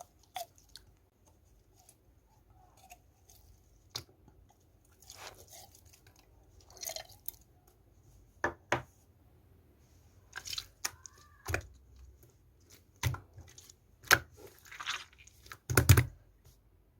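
Slime being squished and pressed by hand: scattered wet clicks, pops and crackles, growing louder and more frequent in the second half.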